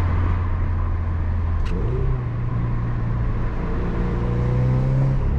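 Turbocharged EJ20Y flat-four of a JDM Subaru Legacy GT running under way. Its drone steps up in pitch about two seconds in, then climbs slowly as the car pulls.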